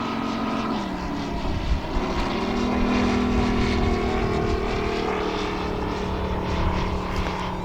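MOKI 250 five-cylinder radial engine of a quarter-scale RC Grumman Wildcat running in flight with its propeller. The engine note drops about a second in, then holds steady.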